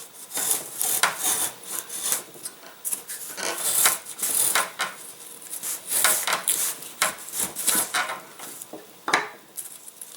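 Small hand plane shaving the wooden leading edge of a model-glider wing in a string of short, irregular strokes, working through a hard spot in the wood.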